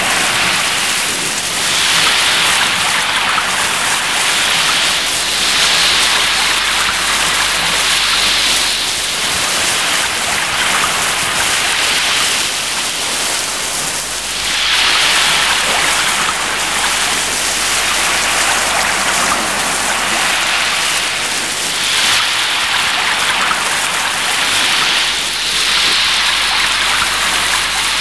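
Heavy downpour pouring onto roofs and a street, a steady hiss that swells and eases every few seconds.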